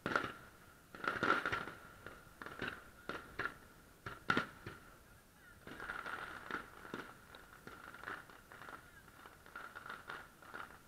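Aerial fireworks shells bursting in a series of sharp bangs, each fading away. About halfway through they give way to a denser run of crackling from crackle-type gold bursts.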